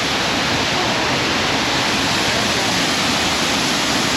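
Waterfall close by: a loud, steady rush of falling water with no breaks.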